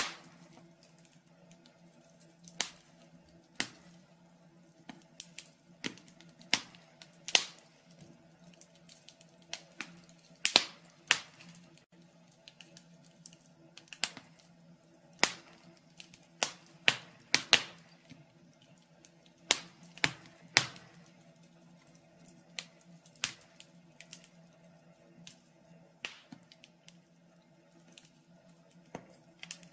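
Wood fire in a fireplace crackling, with sharp irregular pops about once a second, some in quick pairs, over a faint steady low hum.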